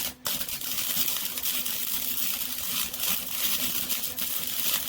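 Electric arc welding: a dense, crackling hiss of the arc that starts with a short burst, pauses briefly, then burns steadily for about four and a half seconds and cuts off suddenly.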